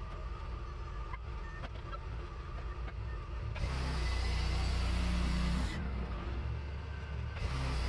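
Wood-Mizer portable band sawmill running with a steady engine hum. About three and a half seconds in, a loud hiss joins it as the blade cuts into the log. The hiss drops out for a moment near the end, then comes back.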